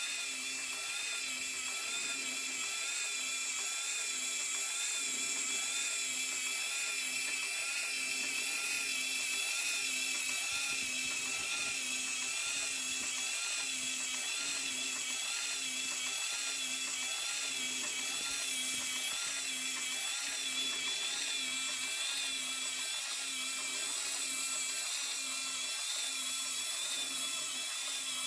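Small electric motor driving the moving engines of a Hachette Titanic model engine room, running steadily. It makes a high whine that wobbles in a regular cycle a little more than once a second as the mechanism turns over.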